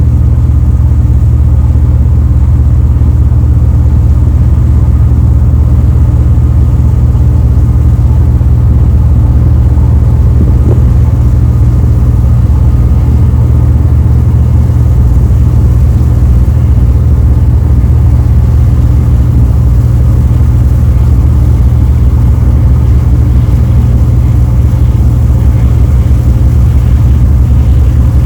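The ferry Furutaka's diesel engines droning steadily underway, a constant low hum with unchanging pitch.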